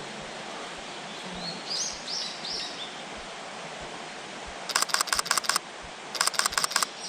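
Two bursts of rapid camera-shutter clicks, a Nikon firing in continuous high-speed shooting at roughly eight frames a second: the first near the middle, the second shorter one near the end. Earlier, a small bird gives a short phrase of high chirping notes over steady forest hiss.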